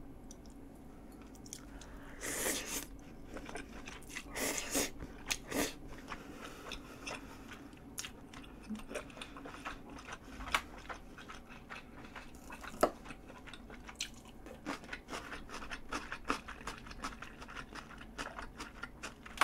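Close-miked chewing of a mouthful of pollack-roe spaghetti: a few longer, louder bursts in the first six seconds, then a steady run of small wet clicks from the chewing mouth.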